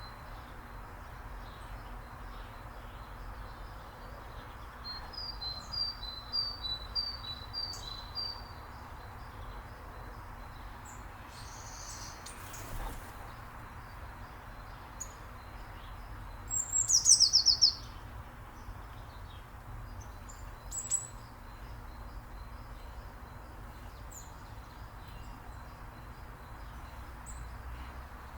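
Small birds chirping: a series of short high notes about twice a second, then about 17 s in a louder quick run of chirps, with scattered single chips in between, over a steady low background hiss.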